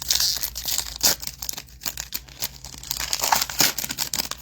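Foil trading-card pack wrapper being torn open and crinkled in the hands, a continuous crackling run of small tears and crinkles.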